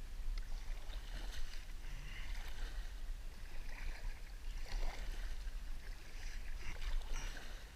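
Kayak paddle strokes dipping and splashing in creek water every second or two, over a steady low rumble, muffled through a waterproof camera case.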